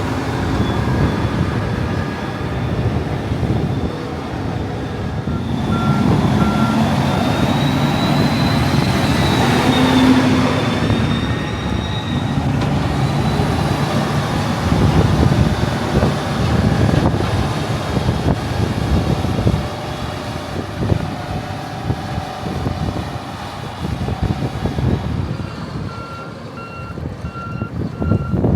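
Heavy diesel farm machinery running and working, with a reversing alarm beeping twice: briefly about a quarter of the way in, then again near the end.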